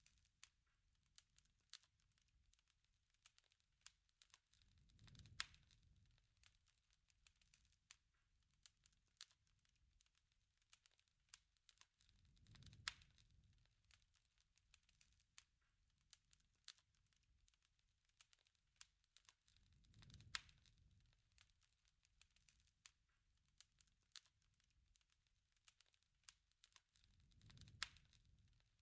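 Faint wood fire crackling with scattered small pops, and a low rumble that swells about every seven and a half seconds, each swell peaking in a louder pop.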